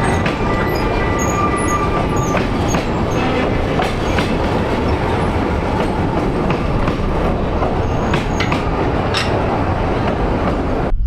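Narrow-gauge train running along the track: a steady, loud rumble of wheels on rail with scattered clicks. A thin squeal of wheels on the rails carries through the first two seconds or so.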